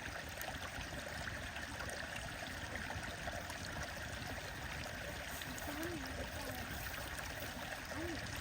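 A stream running steadily, with scattered light crackles from a bonfire. Faint snatches of a distant voice come in twice near the end.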